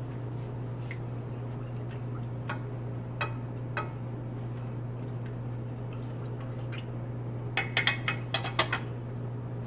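Pot of rice and water heating on the stove: a steady low hum with scattered small drips and pops, and a quick run of clicks about eight seconds in.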